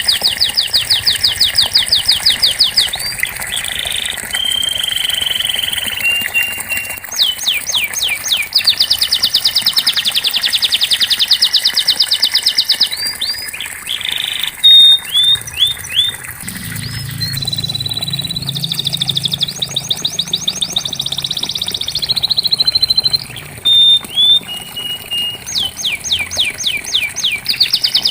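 Domestic canary singing: long, rapid rolling trills in phrases of a few seconds, broken by short steady whistled notes and quick chirps.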